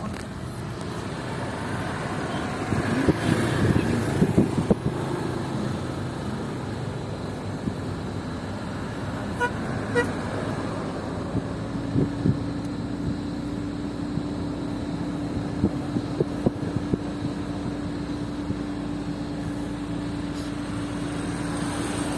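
Motor vehicles outdoors: irregular knocks early on, two short horn toots a little before the middle, then a steady engine hum that starts about halfway through.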